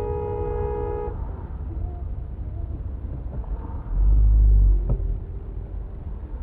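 A car horn held in one steady blast that cuts off about a second in, then the low rumble of the car and road, swelling louder for under a second about four seconds in.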